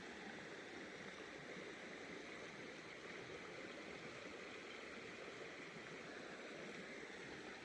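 Creek water running steadily over small rapids.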